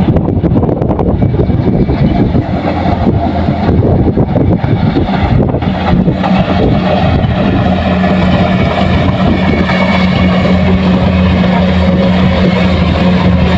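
Kubota combine harvester's diesel engine running loud and continuous. It starts as an uneven rumble, and about six seconds in it settles into a steady low hum.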